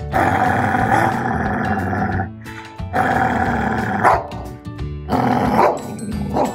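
Labrador retriever growling and grumbling while guarding its plush toy from a reaching hand: one long drawn-out growl, then a few shorter ones with brief pauses between them. Background music plays underneath.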